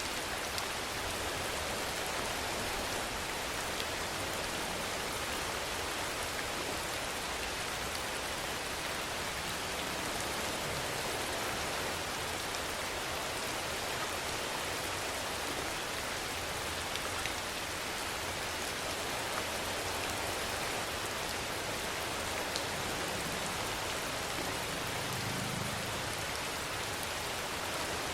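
Steady rainfall: a dense, even hiss of rain with a few sharper drop ticks scattered through it.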